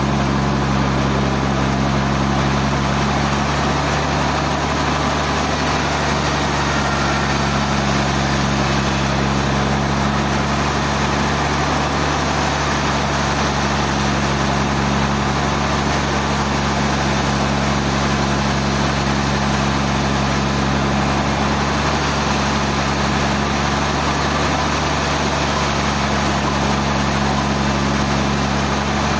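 Sawmill machinery running steadily: an engine-driven drone with a low, even hum that holds the same pitch throughout.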